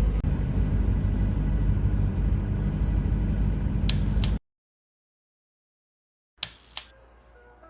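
Steady low rumble of road-vehicle noise that cuts off abruptly about four seconds in. After about two seconds of dead silence come two sharp clicks.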